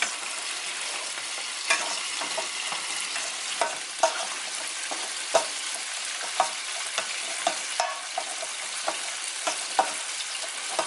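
Hot oil sizzling steadily as chicken fries, with a utensil clicking and knocking now and then as it stirs.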